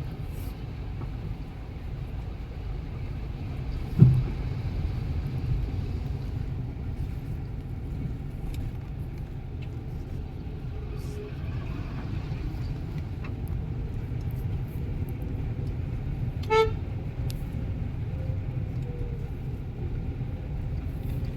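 Steady low rumble of heavy rain mixed with road traffic. A sharp thump comes about four seconds in, and a vehicle horn gives one short toot about two-thirds of the way through.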